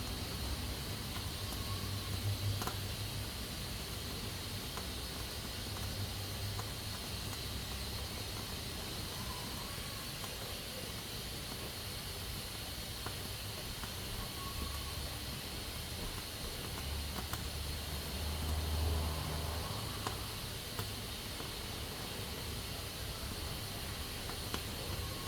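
Pressure cooker hissing steadily as steam escapes from its valve under pressure. A low rumble swells now and then, loudest about two-thirds of the way through.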